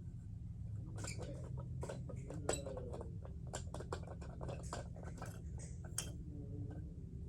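Plastic knobs and winch of a toy train crane car clicking and rattling as they are turned by hand, with small plastic parts tapping, over a steady low hum.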